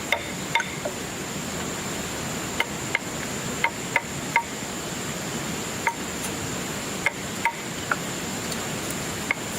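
Light, uneven tapping, about a dozen sharp strikes with a short ring, typical of a hammer on a building job. Under it runs a steady high-pitched insect drone.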